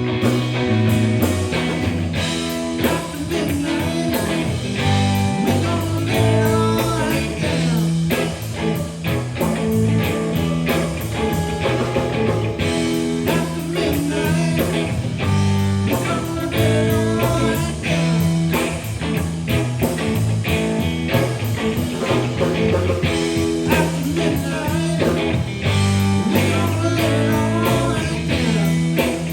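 Live blues-rock band playing, with electric guitar over bass and a steady beat.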